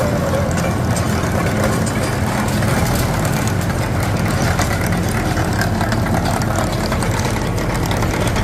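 Tractor engine running steadily under load of a trencher, with a light irregular rattle of small ticks over the low engine hum.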